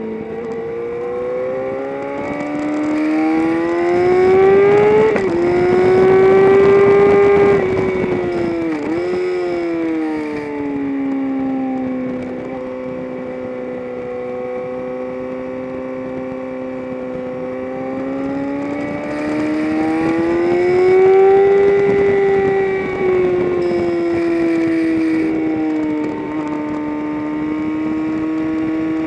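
Onboard sound of a vehicle engine under track driving, the revs climbing under acceleration, falling off with a sharp dip and recovery about nine seconds in, holding steady, then climbing again past twenty seconds and dropping back near the end.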